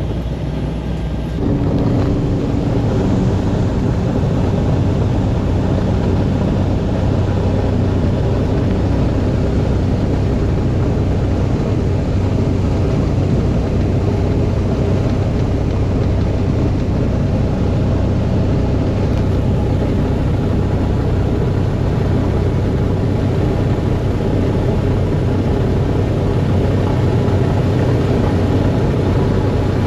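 Seaplane engine running steadily, stepping up louder about a second and a half in, then holding a constant hum.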